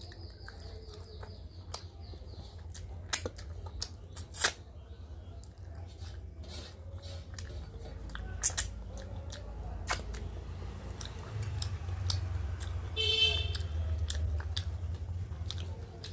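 Close-miked chewing of a mouthful of rice and dal eaten by hand, with sharp wet clicks scattered through and a short rasp about thirteen seconds in, over a steady low hum.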